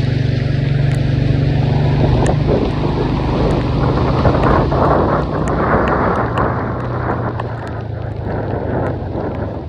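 A steady engine-like hum under a rushing noise that swells through the middle and eases off near the end, with scattered sharp ticks.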